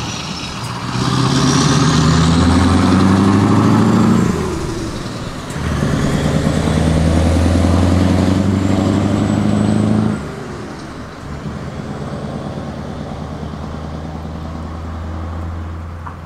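Scania R500 turbocharged V8 truck with an open exhaust pipe pulling away: the engine pulls hard twice with a short drop between for a gear change, then runs at lower, steady revs after about ten seconds and starts to fade near the end.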